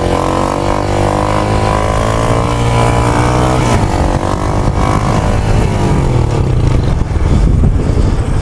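Motorcycle engine running under throttle. Its pitch climbs slowly, drops sharply nearly four seconds in, then builds again and turns rougher and more uneven near the end.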